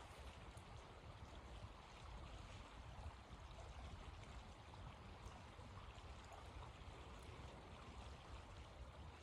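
Faint, steady rush of blizzard wind with a low rumble, and a few faint ticks now and then.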